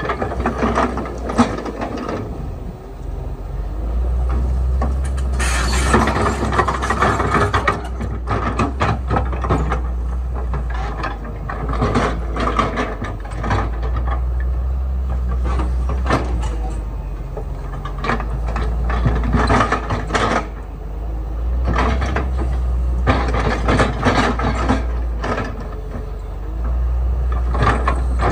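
Heavy earthmoving machinery at work: a diesel engine running steadily under repeated metallic clanks and knocks, with a louder harsh stretch about six seconds in.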